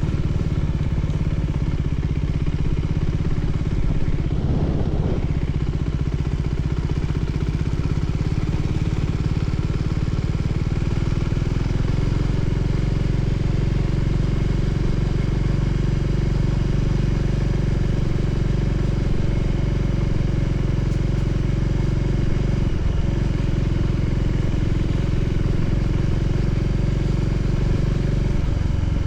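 Voge 300ACX motorcycle engine running at a steady speed while riding, with road and wind noise.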